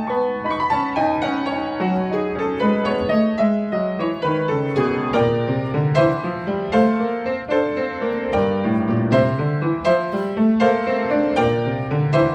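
A 100-year-old upright piano, slightly out of tune, playing a slow, minimalist neoclassical prelude: repeating broken-chord figures over steady bass notes.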